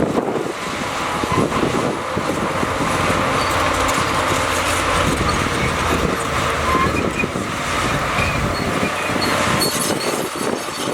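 Shantui crawler bulldozer working, its diesel engine running under steady load while the steel tracks clank and give short squeaks.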